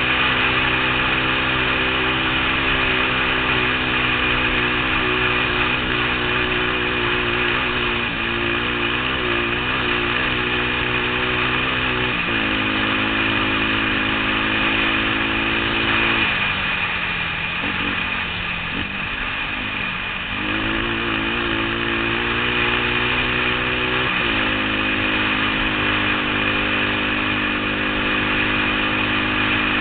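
Motorcycle engine running continuously on a trail ride, its pitch stepping up or down about twelve seconds in and again near the end. Around the middle the engine note drops and wavers for a few seconds before steadying again.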